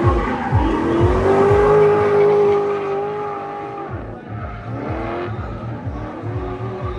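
LS V8 engine in a Nissan 350Z drift car revving hard. It climbs and holds high for a few seconds, drops off, then climbs again, with tyre noise under it.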